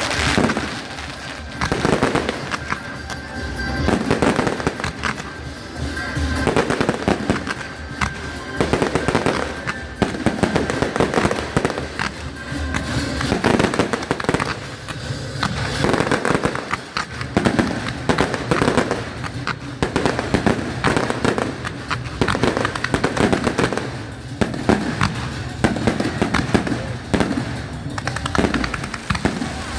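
Aerial fireworks bursting in dense, swelling volleys of bangs and crackles, with music playing underneath.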